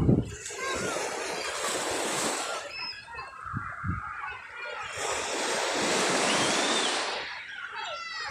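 Sea waves washing onto a shore: two surges of surf, each swelling and then falling away.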